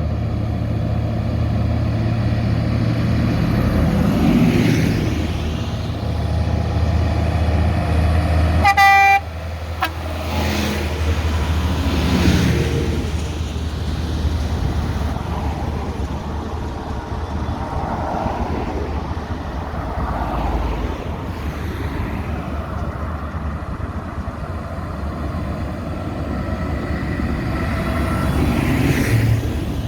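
Diesel tractor engines running steadily as vehicles pass by one after another, each swelling and fading. A horn toots once, briefly, about nine seconds in.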